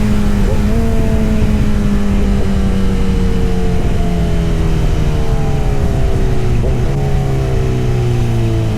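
Kawasaki Z900 inline-four engine and exhaust running, its note sliding slowly lower in pitch with a few brief blips along the way.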